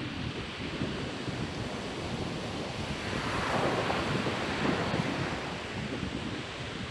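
Surf on a sandy beach, with a wave swelling and washing in about halfway through. Wind buffets the microphone with a low rumble.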